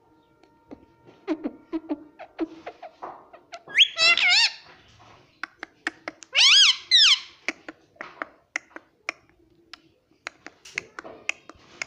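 Pet green parrot vocalising: scattered clicks and soft mutters, with two loud bursts of squawking calls that bend up and down in pitch, about four seconds in and about six and a half seconds in.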